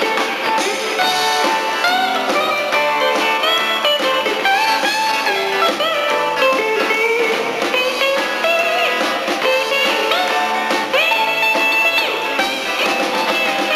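Live country-rock band playing an instrumental break between verses, with a lead guitar playing a solo of bending notes over the band.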